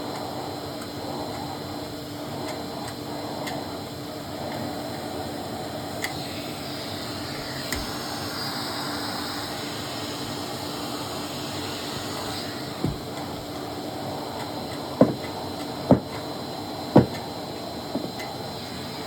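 Hoover Constellation canister vacuum running with a steady hum. Near the end, three sharp knocks come about a second apart.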